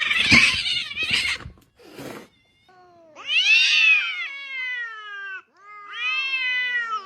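A cat yowling in two long, drawn-out meows, each rising and then sliding down in pitch, after a second or so of harsh rushing noise at the start.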